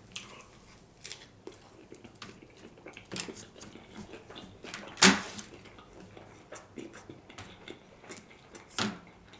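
Close-up chewing and mouth sounds of someone eating a shrimp sushi piece, tail still on, with scattered light clicks and taps of chopsticks. A sharper, louder click comes about five seconds in, and another near the end.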